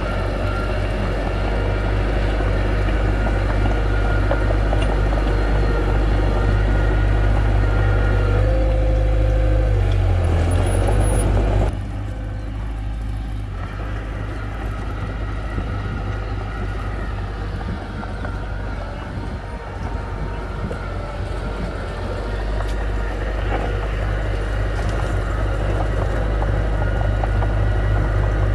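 Heavy diesel machinery engine running steadily under load, with a strong low drone. The sound drops abruptly about twelve seconds in, then builds back up toward the end.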